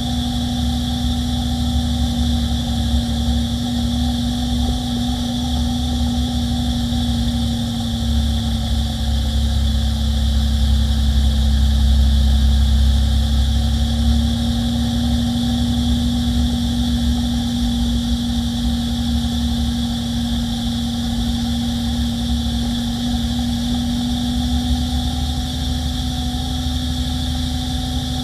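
Peterbilt 348 plow truck's diesel engine running steadily, a continuous low drone with a held tone above it.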